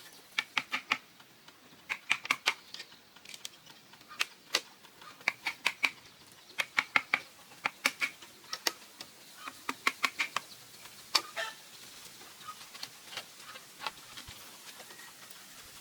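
Rapid clusters of sharp taps or knocks, three to six in quick succession, repeating every second or so and thinning out after about eleven seconds.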